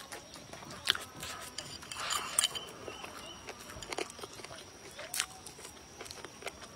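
Close-up eating sounds of a mouthful of rice and braised chicken being chewed, with a few sharp, separate clicks.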